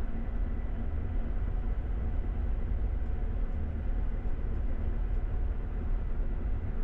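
Light aircraft engine running at low taxi power, a steady low drone from inside the cockpit with a faint steady hum above it.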